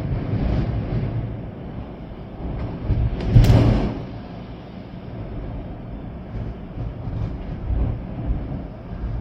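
Storm wind and rain: a steady rushing noise, with one stronger gust peaking about three and a half seconds in.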